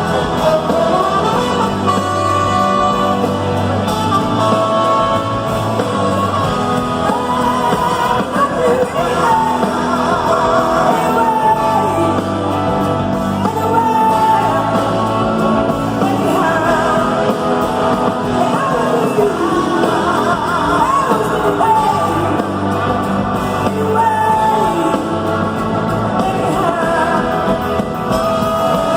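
Live blues-rock band music in a large hall, with a lead melody that bends and glides over the full band.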